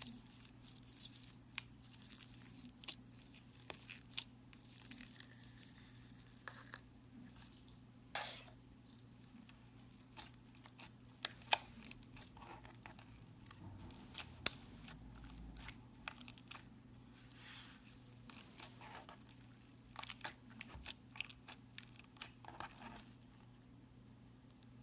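Slime being squeezed, stretched and poked by hand, giving irregular small pops, crackles and sticky tearing sounds.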